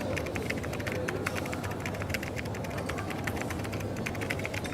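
Coffee shop ambience: a steady low hum under a busy patter of rapid, irregular light clicks.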